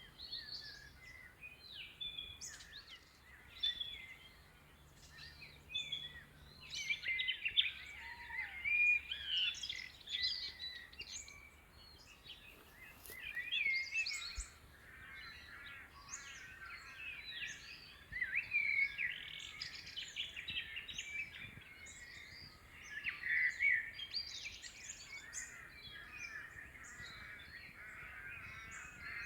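Dawn bird chorus: many birds chirping and singing over one another.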